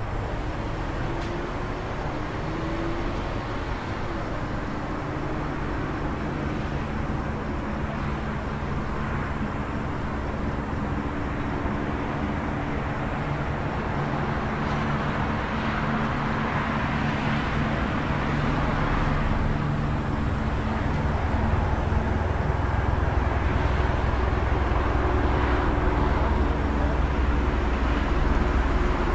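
City street traffic: a steady hum of engines idling and running, with several held engine tones. A heavier vehicle's deep rumble builds in the last third and gets louder.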